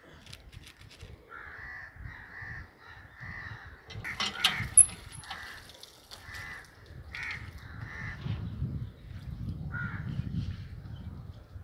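A bird cawing over and over in short, harsh calls. Wet cloth is rubbed and scrubbed by hand on concrete, most plainly in the last few seconds, with a few sharp clicks about four seconds in.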